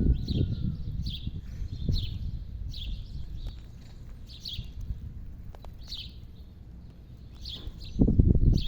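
A bird chirping repeatedly, short calls about once a second, over a low rumbling noise that swells near the end.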